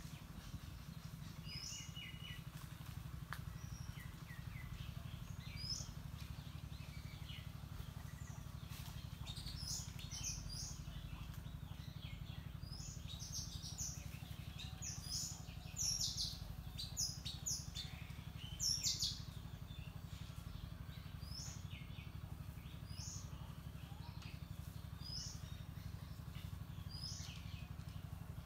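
Small birds chirping: short, high notes repeated every second or two, with a louder, busier run of calls about halfway through, over a steady low background rumble.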